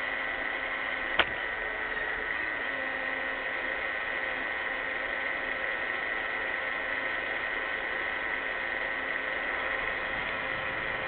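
iRobot Roomba 600-series robot vacuum running: a steady motor whine over brush noise, with one sharp knock about a second in.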